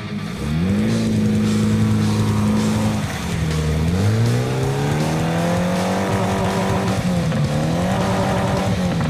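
Off-road 4x4's engine revving hard under load. It rises quickly, holds high, dips briefly twice and climbs again, then drops away at the end.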